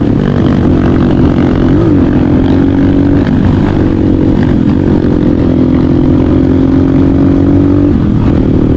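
Motorcycle engine running steadily under load while riding, with brief dips and recoveries in engine speed about two seconds in and again near the end, as the throttle is eased off and reopened.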